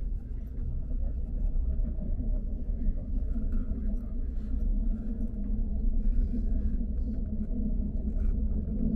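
High-speed train running at speed: a steady low rumble of the carriage and wheels on the track.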